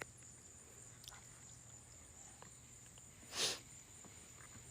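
Steady high-pitched insect drone, with a brief rush of noise about three and a half seconds in.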